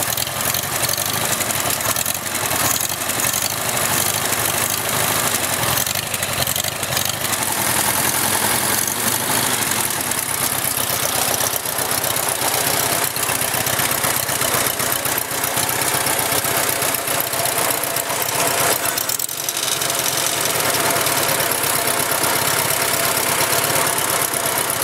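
Farmall Cub's four-cylinder flathead engine running steadily, backed off from full throttle, shortly after a cold start without choke.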